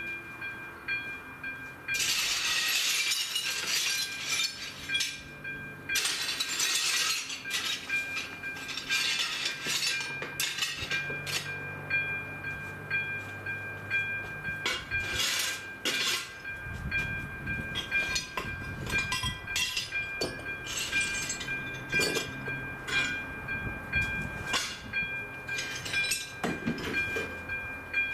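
Level crossing's electronic warning bell ringing with two steady high tones throughout, while a train approaches with loud noisy bursts and then passes over the crossing, its wheels rumbling from about halfway through.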